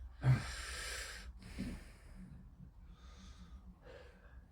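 A person breathing out hard close to the microphone: one rushing breath of about a second near the start, then only faint rustle.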